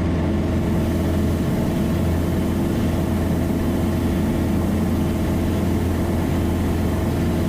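Piper Cherokee's four-cylinder Lycoming engine and propeller droning steadily in cruise, heard inside the cabin. The pitch and level do not change.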